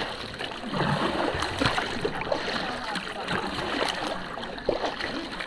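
Water splashing and lapping around a kayak, in irregular small splashes over a steady wash.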